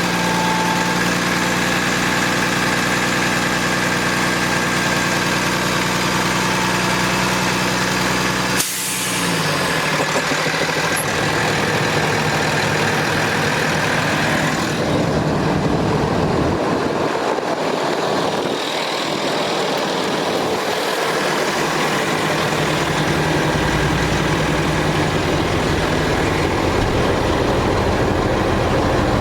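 Cummins ISC diesel engine of a Freightliner M2 truck idling steadily. About eight and a half seconds in there is a sudden sharp sound, after which the engine note drops.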